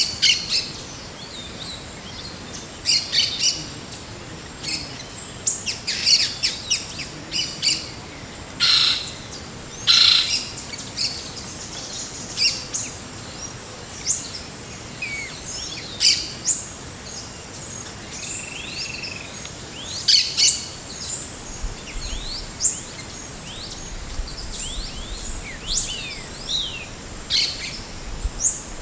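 Several forest birds calling: many short chirps, whistles and quick sliding notes, with one longer held whistle about two-thirds of the way through. A faint steady high tone runs underneath.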